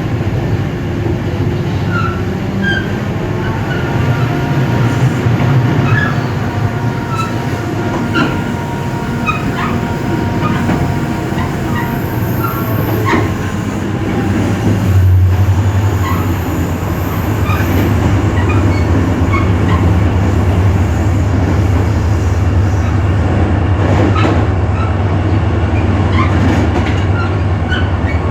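EMD GT26CW-2 diesel-electric locomotive's 16-cylinder two-stroke engine running under load as the train moves. About halfway through, a deep steady drone comes in and the sound grows a little louder. Rail clicks and short high wheel squeaks are heard throughout.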